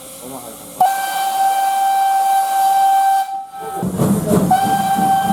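Steam whistle of a Ty42 steam locomotive giving two long blasts on one steady pitch: the first about three seconds long starting about a second in, the second starting about four and a half seconds in. A low rhythmic pulsing runs under the second blast.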